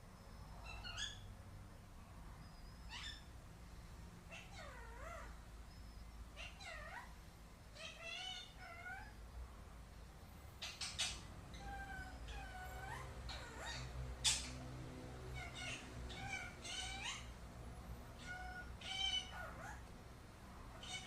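Ring-necked parakeet vocalising: a string of short calls that bend up and down in pitch, coming every second or two, the loudest about 14 seconds in.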